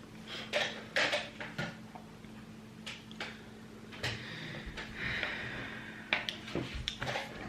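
Scattered light clicks and knocks of small kitchen items being handled, with a soft rustling hiss a little past the middle.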